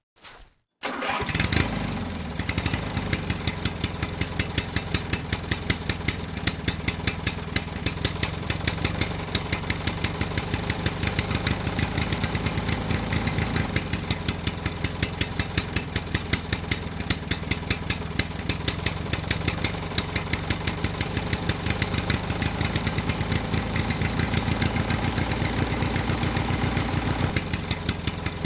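An engine starts about a second in and then runs steadily with an even, regular pulse, typical of a tractor engine idling.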